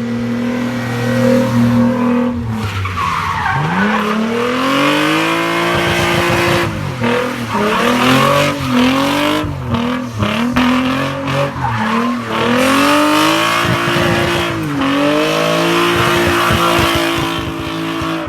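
Nissan 300ZX sports car drifting: the engine revs up and falls back over and over, with quick blips in the middle and two longer held pulls, while the tyres squeal.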